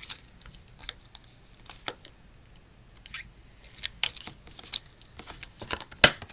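Scattered light clicks and taps of a clear stamp and acrylic stamp block being picked up and handled on a craft table, the sharpest click about six seconds in.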